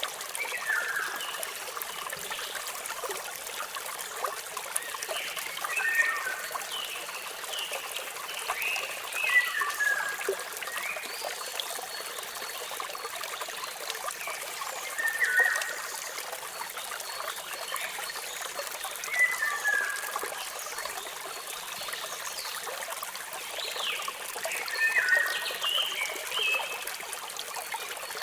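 Steady trickling rush of a waterfall, with birds giving short descending chirps in clusters every few seconds.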